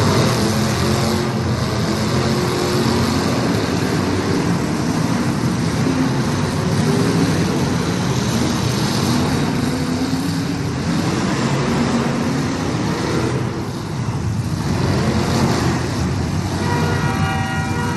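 Several race car engines running together, revving up and down as the cars circle the track. Near the end a loud horn with several tones sounding at once starts and holds.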